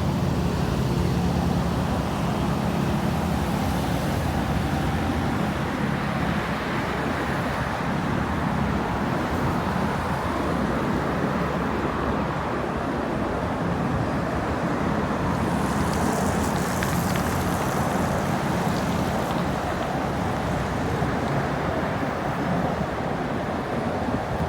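Steady rumble of road traffic passing, with a low engine hum that comes and goes.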